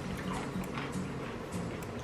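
Wet chewing and mouth sounds of someone eating, small smacks and clicks, over faint background music.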